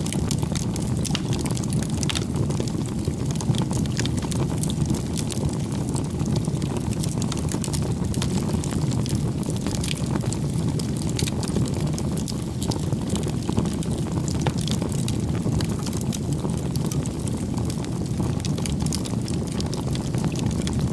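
Campfire burning: a steady low rush of flames with many small sharp crackles and pops from the burning wood.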